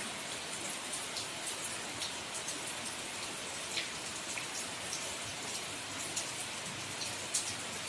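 Steady rain falling: a constant hiss with scattered single drops ticking sharply through it.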